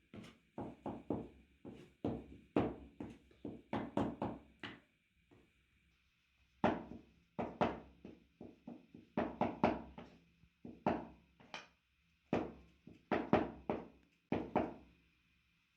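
Repeated heavy knocks, two to three a second, with short pauses about five and twelve seconds in: chicken meat being pounded for kebab.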